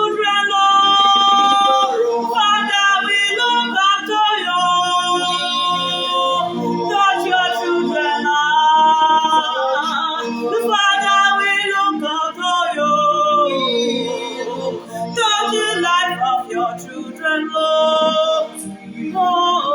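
Worship singing: a voice holding long, sliding, wavering notes over a steady instrumental backing.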